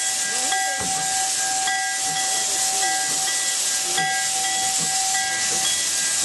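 Narrow-gauge steam locomotive hissing steam steadily, with a high whistling tone that keeps breaking off for a moment and coming back.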